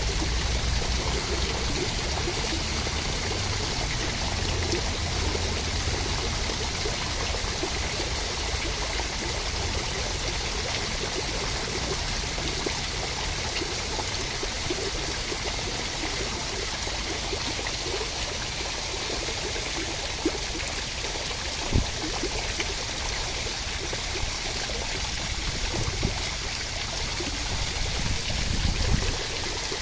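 Steady rushing water, an even hiss with no break, used as a sleep ambience. A couple of brief soft knocks come about two-thirds of the way in, and a low rumble swells near the end.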